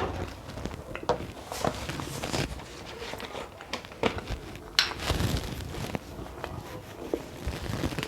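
Close-miked eating of matoke (cooked plantain): chewing and mouth sounds with irregular small clicks.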